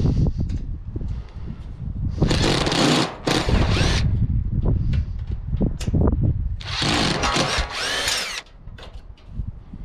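Cordless drill-driver backing screws out of a water cooler's casing in three short runs, its motor whine rising and falling in pitch as it spins up and slows. Knocks of handling the casing come between the runs.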